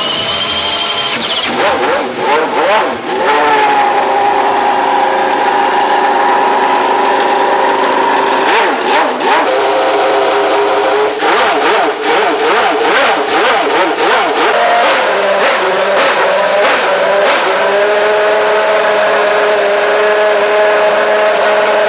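Renault Espace F1's 3.5-litre Renault RS5 V10 Formula One engine starting and revving, its pitch swinging up and down for a couple of seconds. It then runs at a steady high pitch, which drops to a lower steady pitch about fourteen seconds in.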